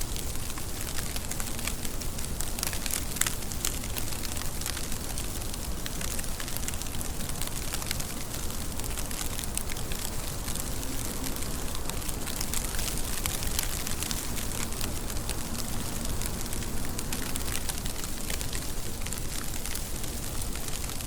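Steady rain falling, an even hiss laced with many fine, quick ticks of drops striking a surface.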